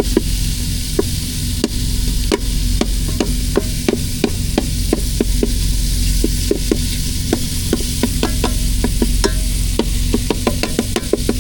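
Ground meat sizzling in a frying pan while a utensil repeatedly scrapes and taps against the pan, breaking up the partly frozen meat, with several sharp clicks a second over a steady hiss. A steady low hum runs underneath.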